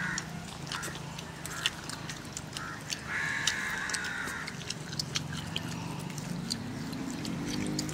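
Eating sounds: sharp wet clicks of chewing and lip-smacking as children eat chicken and noodles by hand. An animal call lasting about a second and a half sounds about three seconds in.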